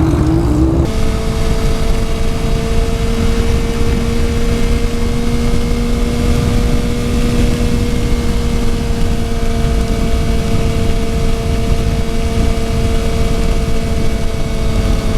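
Suzuki GSX-R750 inline-four engine pulling up through the revs, changing gear about a second in, then running at steady cruising revs under heavy wind noise.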